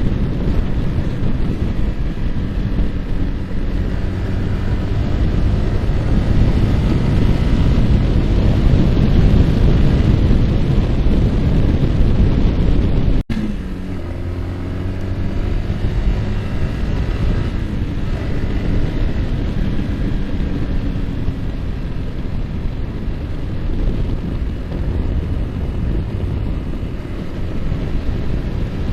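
Yamaha R15's single-cylinder four-stroke engine running at road speed under heavy wind noise buffeting the microphone. The sound drops out for a moment about halfway, after which the engine note rises and falls as speed changes.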